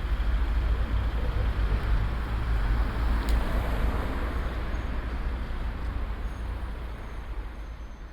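Steady vehicle or road rumble, heavy in the low end, slowly fading away towards the end.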